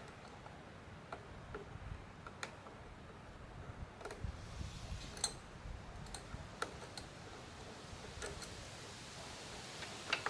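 Scattered, irregular metal clicks and clinks of channel-lock pliers working a battery terminal clamp loose to disconnect the battery.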